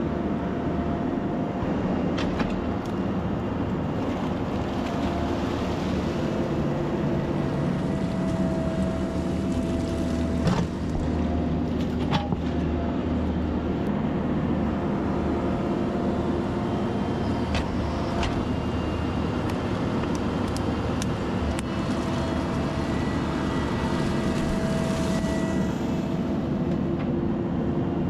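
Diesel engines of an excavator and a tracked dump truck running steadily while the excavator loads the truck's bed. A high whine comes and goes, and there are a few sharp knocks about ten and twelve seconds in.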